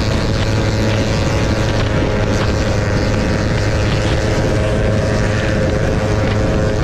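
Motorcycle engine running at a steady cruising speed with wind rushing past, a constant even drone.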